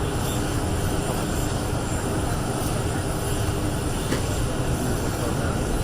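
Aircraft engine noise, a steady deep rushing sound.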